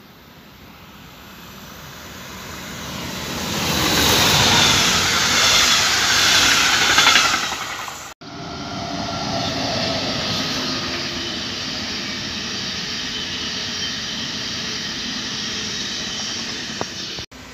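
Electric trains passing on a main line: the first grows louder as it comes past, loudest about four to eight seconds in with a falling tone, and then cuts off suddenly. After the cut, an ICE high-speed train rolls past with a steady rush of wheels on rails and a low rumble.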